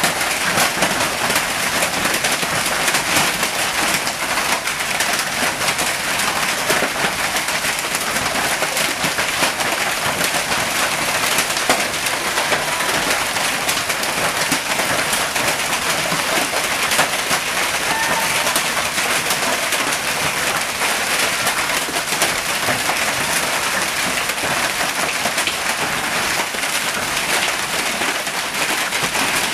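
Hailstorm: hail and heavy rain pelting down in a dense, steady clatter of impacts.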